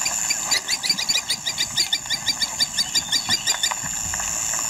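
A bird calling in a rapid run of short, chattering notes, about five a second, for roughly three seconds, over a steady high insect drone.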